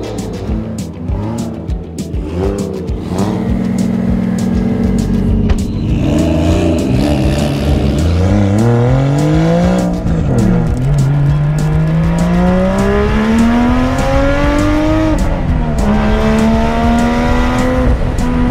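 Lexus IS300 drift car's engine accelerating hard, its note rising through the revs with two sudden drops in pitch as it shifts up, about ten and fifteen seconds in.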